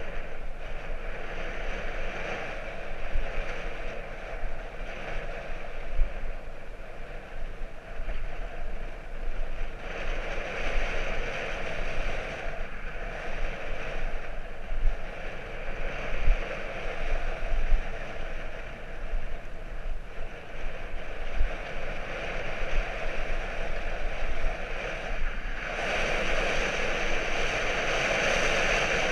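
Steady rushing wind and road noise from a moving bicycle, with gusts buffeting the microphone as low thumps.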